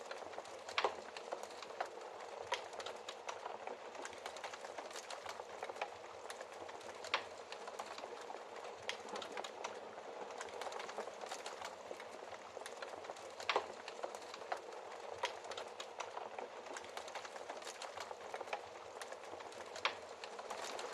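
Wood fire crackling in a fireplace: a steady soft hiss full of small snaps, with four louder pops spread through it.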